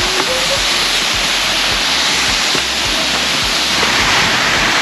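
DeSoto Falls waterfall rushing: a steady, dense water noise with no break.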